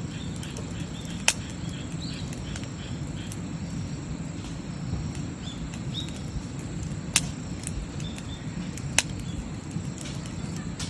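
Wood campfire burning with a steady low rumble and scattered crackles, including three sharp pops.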